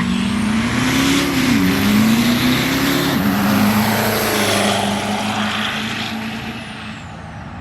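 Diesel pickup truck making a drag strip run at full throttle, its engine pitch rising and dipping a few times, with a thin high whine over it. The sound eases off over the last couple of seconds as the truck moves away.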